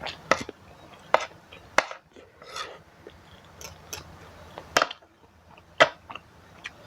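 Metal fork and spoon clinking against a bowl of noodles, several sharp separate clicks a second or so apart.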